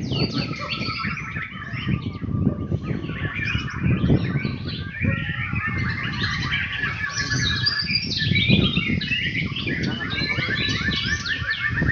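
Many songbirds singing and chirping at once, a dense overlapping chorus of whistles and rapid trills, over a low background rumble.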